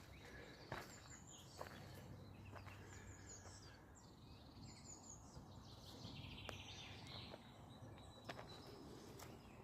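Faint birdsong from small birds: short high chirps, with a trilling call about six seconds in, and a few soft clicks.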